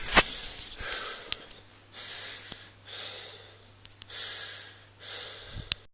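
A person breathing hard, four loud breaths in and out about a second apart, out of breath from dancing. A few sharp clicks fall near the start and just before the end.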